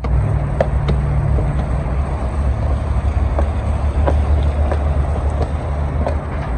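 An engine running steadily with a deep hum, starting abruptly.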